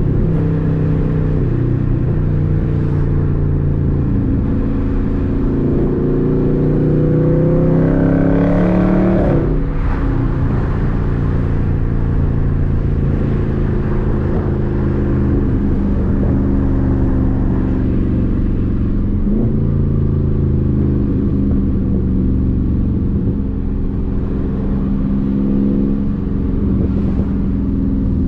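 Dodge Charger Daytona 392's 6.4-litre HEMI V8 running while the car cruises. From about four seconds in, the engine climbs in pitch under acceleration, drops back at an upshift about ten seconds in, then settles into a steady cruise.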